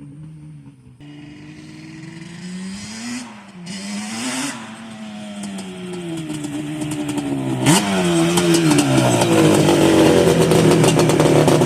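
Yamaha Banshee's two-stroke parallel-twin engine running on its freshly rebuilt top end, blipped up in revs three times and falling back each time. It gets steadily louder toward the end.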